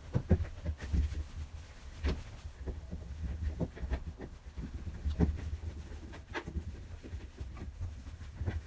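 Irregular clicks and knocks, about a dozen, of objects such as containers and refrigerator shelves being handled, over a low uneven rumble.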